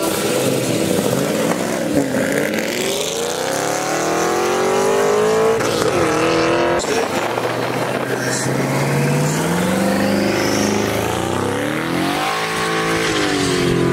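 Car engine accelerating hard through the gears on a drag run, its pitch climbing and dropping back at each shift, about three shifts.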